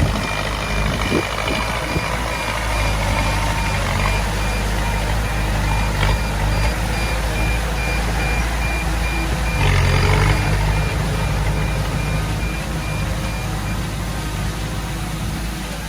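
Heavy diesel machinery running with a reversing alarm beeping in a steady repeating pattern. The engine swells louder about ten seconds in, and the beeping stops shortly before the end.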